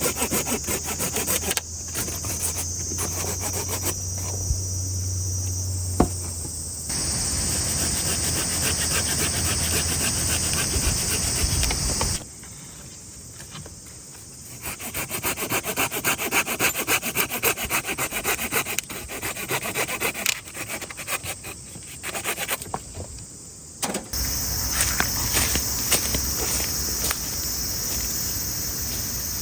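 A hand saw cutting through wood in repeated back-and-forth strokes, with steady insect chirring behind it.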